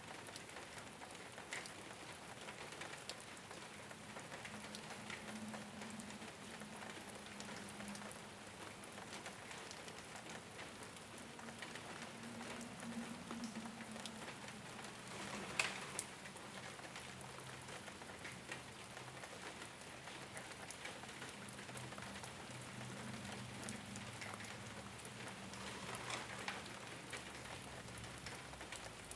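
Steady rain falling on a rooftop, with scattered individual drops tapping through the hiss and one louder drop hit about halfway through. A faint low hum runs underneath.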